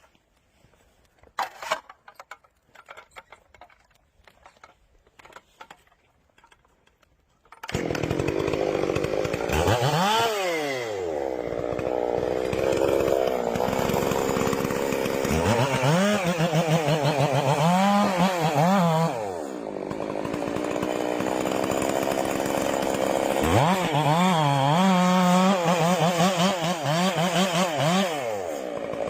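A few faint knocks in near quiet, then about eight seconds in a chainsaw comes in loud. It runs steadily and revs up and down several times as it cuts wood.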